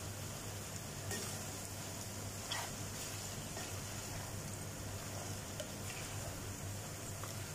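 Chicken sizzling as it fries in oil in a cooking pot while being stirred, with a couple of faint clicks from the stirring.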